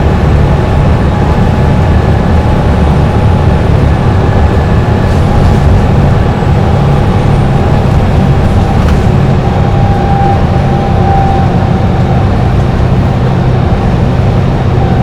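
Dennis Trident double-decker bus engine running steadily at highway cruising speed: a heavy, even rumble with a thin steady whine above it that grows louder about two-thirds of the way through.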